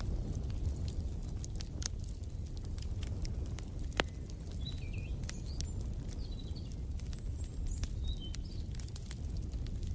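Wood fire crackling, with many small sharp pops and one louder pop about four seconds in, over a low steady rumble. Small birds chirp a few times in the middle.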